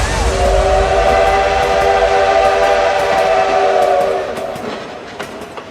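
Train whistle sound effect blowing one long steady chord for about four seconds, then fading away over a rumbling train.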